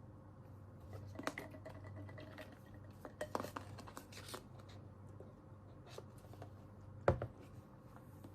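Scattered small clicks, taps and light clatter of objects being handled on a desk in a quiet room, with the loudest knock about seven seconds in.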